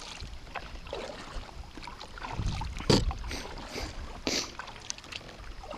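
Kayak noises on the water: a low wash of water and wind with scattered small clicks, and two sharper knocks about three and four seconds in.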